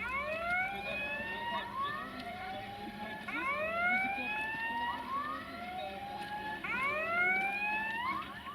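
Railway level crossing warning signal sounding as the barriers close: repeated electronic tones that rise in pitch, several overlapping, with the strongest group coming about every three and a half seconds.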